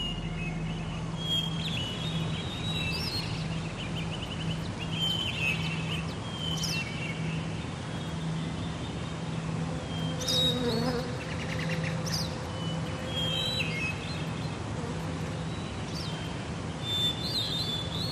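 Birds chirping and calling on and off, in short sweeping notes, over a steady low hum and a light even hiss.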